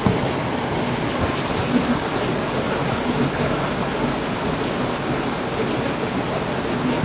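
Heavy rain falling steadily, an even hiss with scattered patter of drops.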